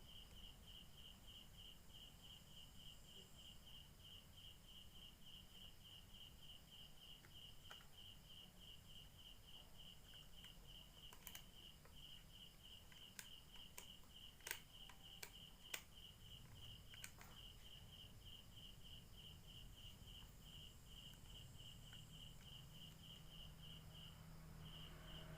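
Cricket chirping faintly and steadily: an even high-pitched pulsing at several pulses a second, with a few faint sharp clicks about halfway through.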